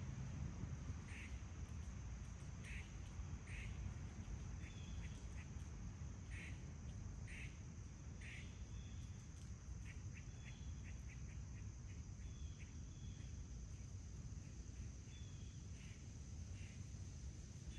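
Small birds calling in a backyard: short chirps repeated about once a second, becoming a quicker run of thin chirps a few seconds in. Underneath are a steady high insect drone and a low outdoor rumble.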